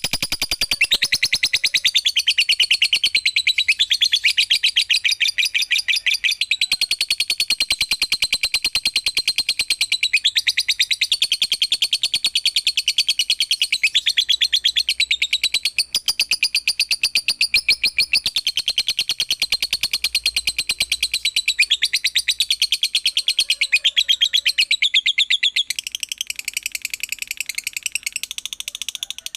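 Lovebird chattering in a long, unbroken run of rapid, high chirps, getting somewhat quieter about 26 seconds in.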